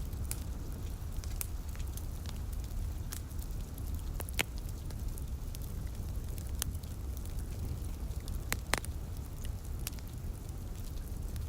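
Wood fire in a fireplace crackling, with scattered sharp pops, two of them louder about four and nine seconds in, over a steady low rumble and a soft patter of light rain.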